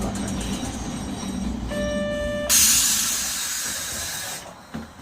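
Nagasaki Electric Tramway 370-series tram car rumbling at low speed. A short steady buzzer tone sounds about two seconds in, then a sudden loud hiss of compressed air runs for about two seconds and dies away, followed by a few light clicks.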